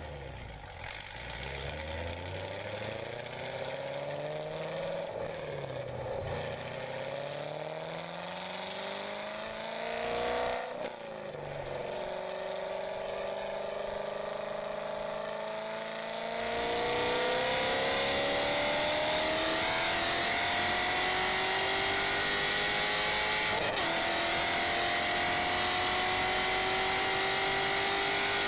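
2014 C7 Corvette's 6.2-litre V8 with Kooks longtube headers and an off-road X-pipe, accelerating with its pitch climbing and dipping briefly twice, about 5 and 10 seconds in, as it changes gear. About 17 seconds in it gets much louder, with added road and wind noise, and keeps rising steadily under a long pull.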